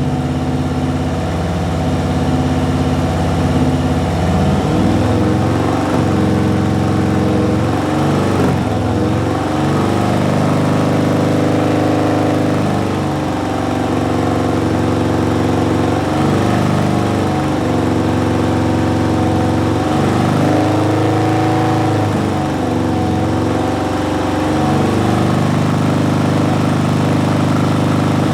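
Harley-Davidson Milwaukee-Eight 107 V-twin running through Tab Performance slip-on mufflers with Zombie Baffles, loud and steady. It is blipped up and let back down several times, with stretches held between, as the rev levels for a sound-level test are set.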